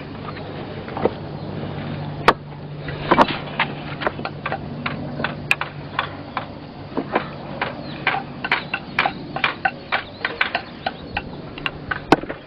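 Irregular clicks and knocks, several a second, with a few sharper louder knocks, over a steady low hum.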